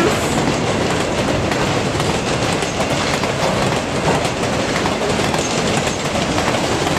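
Long train rolling past: a steady, loud rumble of its cars' wheels on the rails, with a light clickety-clack.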